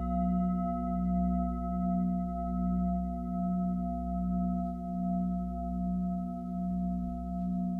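Sustained bell-like ringing tones, held steady and swelling and fading in loudness a little more than once a second, with no new strike.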